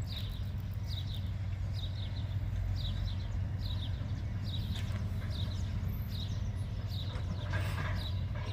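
Low steady rumble of an approaching diesel-hauled container train, with a short high chirp repeated about once a second. A car crossing the tracks passes near the end.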